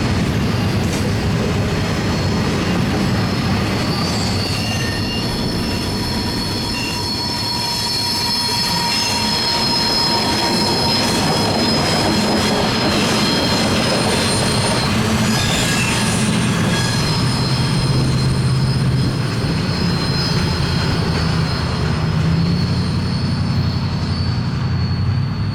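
Diesel-hauled freight train rolling past: steel wheels squealing on the rail with thin, high, steady tones over a continuous rumble of the cars. A low diesel engine drone grows stronger in the second half.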